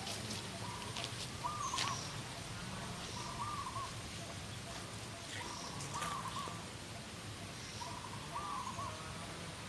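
A bird repeating a short call with a wavering pitch about every two to two and a half seconds, with faint higher calls from another bird and a few light clicks.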